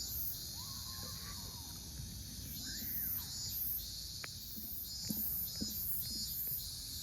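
Summer park ambience dominated by insects: a steady high-pitched drone with a pulsing trill repeating about twice a second, over a low background rumble. A few faint short calls and a single sharp click about four seconds in.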